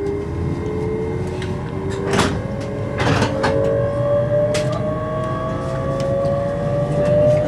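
Passenger train's traction motors whining, the pitch rising slowly as the train picks up speed, over a low running rumble. A few short clunks and rattles sound around two and three seconds in.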